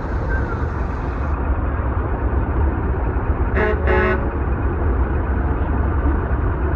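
Heavy trucks running with a steady low rumble, and a truck horn giving two short toots about halfway through.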